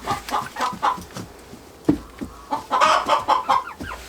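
Chickens clucking in short, repeated calls, in two bouts, with a single sharp knock a little before the middle.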